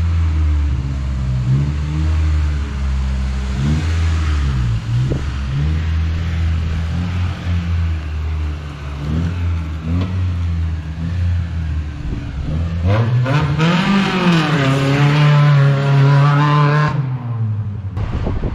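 Toyota Corolla Seca rally car's engine driving under load, its pitch stepping up and down with the gear changes. Near the end it revs up, holds high, and the sound cuts off suddenly.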